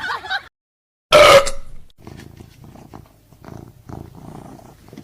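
A cat's short, loud meow, followed by a low, steady pulsing purr.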